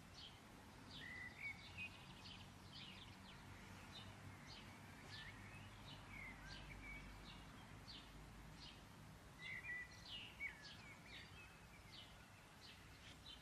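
Near silence with faint small birds chirping in the background: short, high chirps at about two a second.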